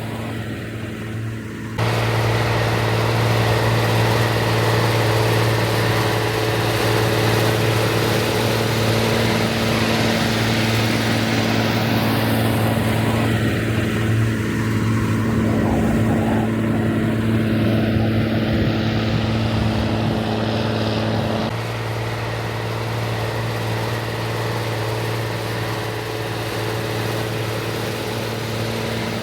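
Rába 250 tractor's diesel engine running at a steady speed. About two seconds in, the sound suddenly becomes louder and fuller, then drops back a little past two-thirds of the way through.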